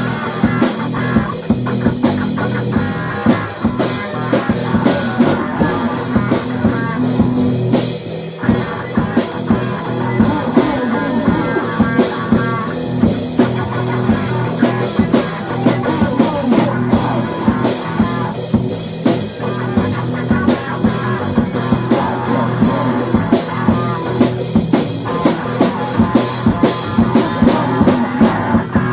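Instrumental rock music: a drum kit keeping a steady, fast beat under guitars.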